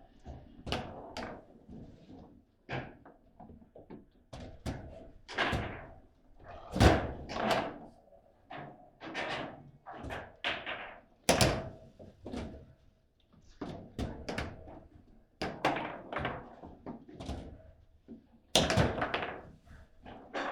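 Table football (foosball) in play: an irregular run of sharp knocks and thunks as the ball is struck by the rod figures and bangs against the table. The loudest hits come about seven and eleven seconds in and again near the end.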